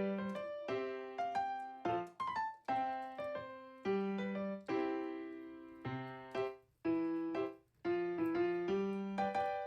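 Background music: a piano or electric piano playing a light melody of separate notes, each one struck and then fading.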